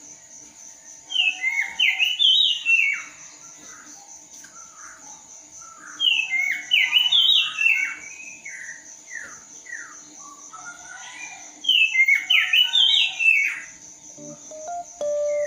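A songbird singing three bursts of quick, falling whistled notes a few seconds apart, over a steady faint high-pitched hum. Music notes come in about a second before the end.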